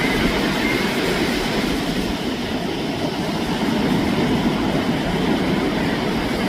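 Ocean surf breaking and washing ashore in a steady low rumble, with a couple of faint, short seagull calls near the start.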